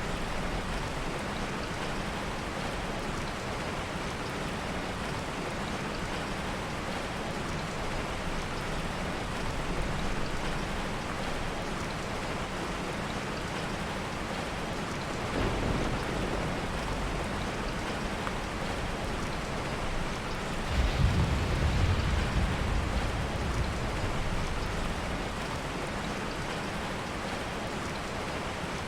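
Heavy rain falling steadily, with two soft rolls of thunder: a short one about halfway through and a louder, longer one about two-thirds of the way through.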